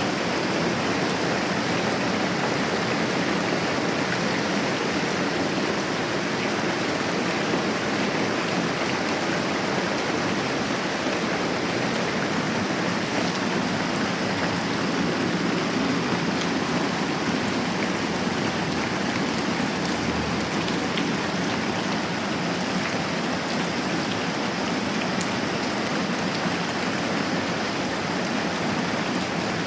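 Steady moderate rain, an even hiss of falling drops that holds at the same level throughout.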